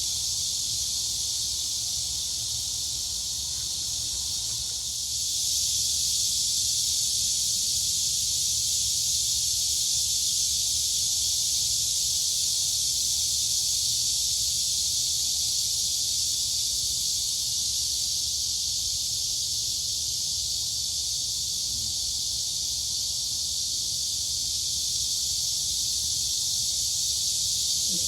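Steady chorus of crickets and cicadas, a dense high-pitched buzz that swells louder about five seconds in and then holds.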